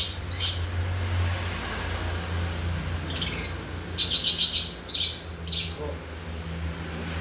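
Long-tailed shrike (pentet) calling: a string of short, sharp chirps about two a second, with a quick burst of rapid, rattling notes around the middle. A steady low hum runs underneath.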